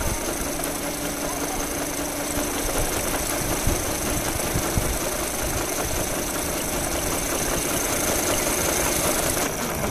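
Motorcycle engine running steadily, holding an even level without revving.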